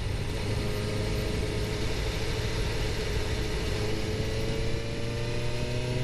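Suzuki GSX-R750's inline-four engine running at a steady cruise under a rush of wind, its pitch rising smoothly through the last third as the bike accelerates.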